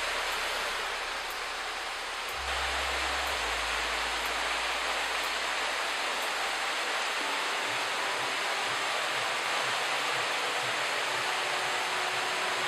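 Waterfall pouring in the rain: a steady, even rush of falling water that grows slightly louder about two and a half seconds in.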